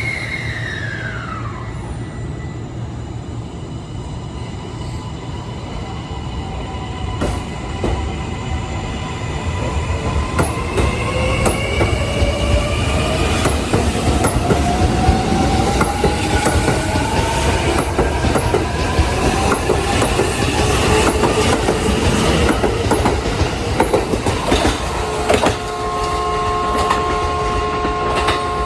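Kintetsu 80000 series electric train pulling away: the motor whine rises slowly in pitch as it gathers speed, over a rumble and wheels clicking across rail joints. A steady high ringing sets in near the end.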